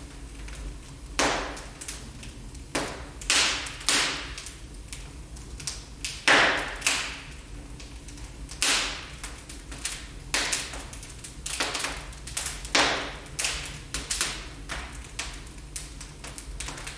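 Wood fire in a fireplace crackling, with frequent irregular sharp pops over a low steady rumble of the flames; the loudest pop comes about six seconds in.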